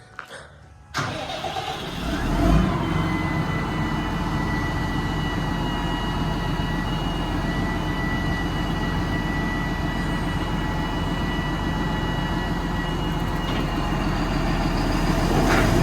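Tractor with a newly fitted single-row maize chopper being run up on the PTO. It starts suddenly about a second in, builds over the next couple of seconds, then runs steadily with a high whine over the engine, getting louder near the end: a first test run of the chopper and its drive shaft.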